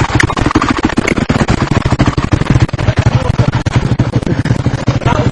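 Enduro motorcycle engine running close by, a loud rapid popping and crackling that goes on without a break.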